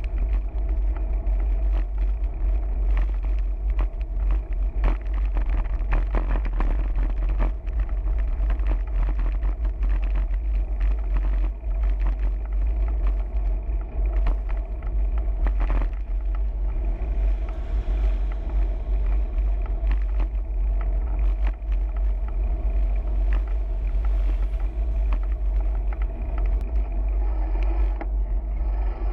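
Steady riding noise from a moving bicycle: wind rumbling on the microphone, with road and traffic noise and scattered small clicks.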